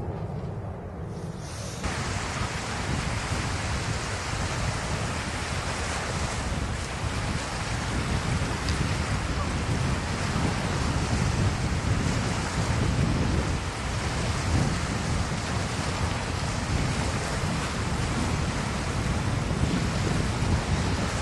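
Strong wind blowing across the microphone: a steady rushing noise with low, buffeting rumbles, which sets in about two seconds in.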